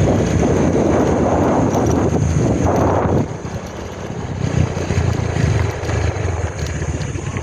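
A vehicle engine running with a steady low hum while on the move, with heavy wind buffeting the microphone for the first three seconds, then lighter wind.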